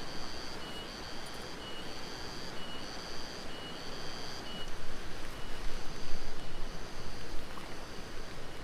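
Heavy rain falling steadily. Over it, a high chirp repeats about once a second and fades out about halfway through.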